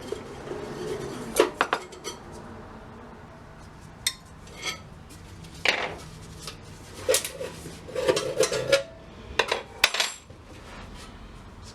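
Metal parts and coins of a vintage jawbreaker vending machine clinking and clattering as it is handled and taken apart. The sharp clinks come singly at first, then bunch into a busier clatter in the second half.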